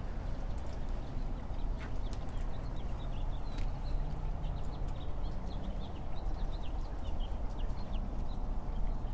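Outdoor ambience: a steady low rumble with short, high bird chirps scattered through the middle.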